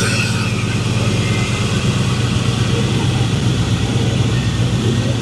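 Chevrolet Silverado pickup's engine idling steadily just after a cold start, with its newly installed exhaust no longer leaking.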